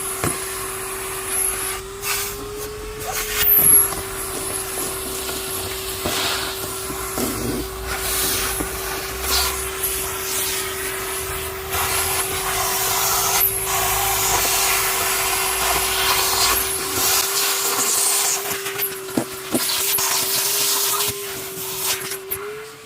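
Numatic tub vacuum cleaner (Henry/James type) running with a constant motor whine. Its suction hiss rises and falls as the hose sucks up rubbish.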